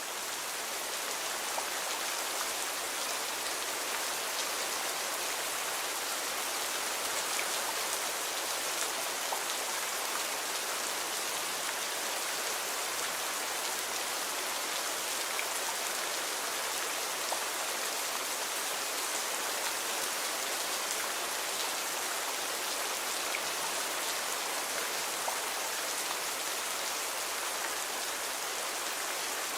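Steady rain falling, an even hiss with a few separate drops ticking through it now and then.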